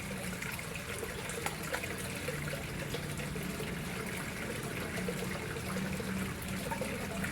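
Water flowing and trickling into a koi pond: a steady splashing with many small droplet splashes.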